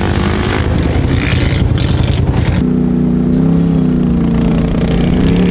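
A quad (ATV) engine running. A little under halfway through, the sound changes abruptly to a steadier low drone.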